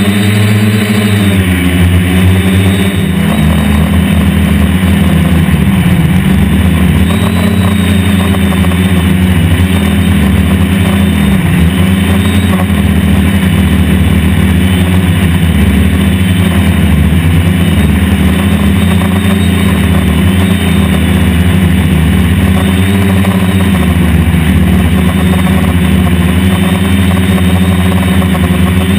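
DJI F450 Flame Wheel quadcopter's brushless motors and propellers humming loudly in flight, the pitch dipping and rising every so often as the throttle changes.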